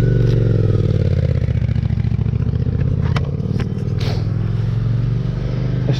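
BMW R1200GS Rallye's boxer-twin engine running at a steady pace on a climb, its pitch dipping slightly in the first second. A few short clicks about three to four seconds in.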